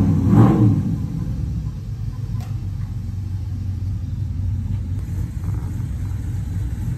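A vehicle's engine rumble that swells and peaks about half a second in as an SUV passes close by, then settles into a steady low engine rumble.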